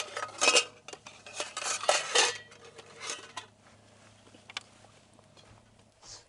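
Eating utensil scraping and clinking against a mess tin as rice is scooped out, in three short bursts, followed by a single light click.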